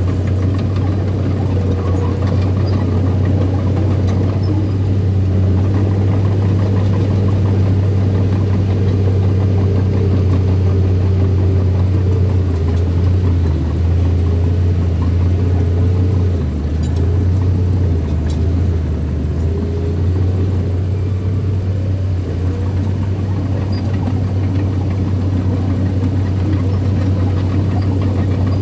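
Bulldozer engine running steadily with a deep hum, its pitch sagging lower a few times in the middle before settling back.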